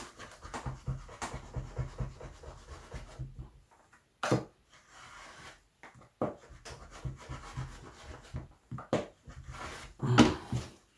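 A very sharp knife cutting through soft leather in quick, rough sawing strokes, with a couple of sharp knocks, one about 4 seconds in and a louder one near the end.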